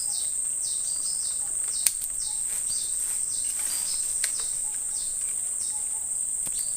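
A chorus of insects, with a steady high-pitched drone and a shorter chirp repeating about twice a second. Two sharp clicks come through about two and four seconds in.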